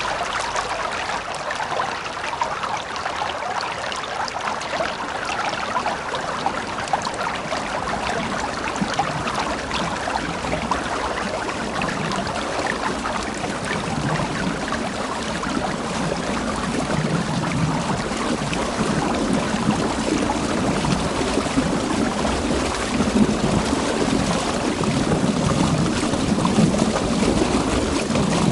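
River water flowing and rushing over stones, a steady splashing that grows fuller and deeper in the second half.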